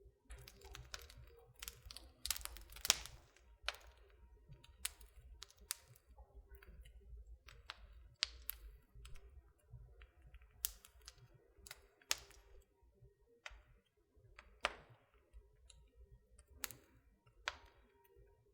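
Wood fire in a fireplace crackling: irregular sharp pops and snaps, a dense cluster in the first few seconds and then scattered single pops, over a faint low rumble of the burning.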